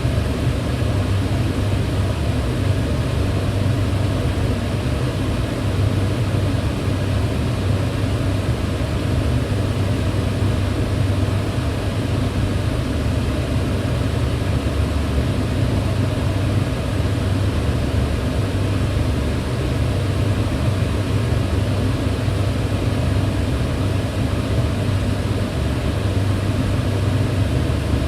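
Kitchen range hood fan running steadily: an even rush of air with a low hum underneath, unchanging throughout.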